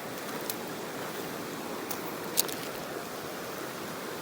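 Mountain stream rushing steadily, with three short sharp clicks, the loudest about two and a half seconds in.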